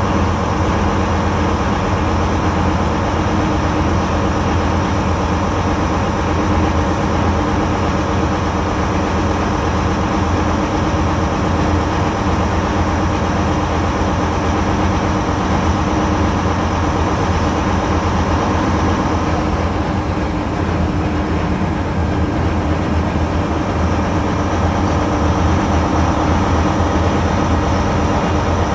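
MTU 16V4000 diesel engine of HST power car 43484 working under power as the train accelerates: a steady loud drone with several engine tones. It eases slightly about twenty seconds in, then builds again.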